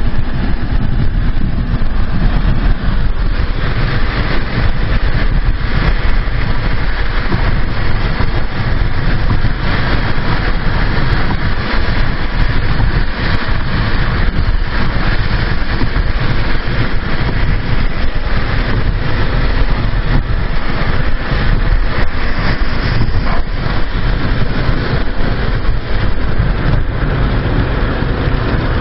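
Hurricane wind blowing hard and steadily, buffeting the microphone with loud, deep wind noise.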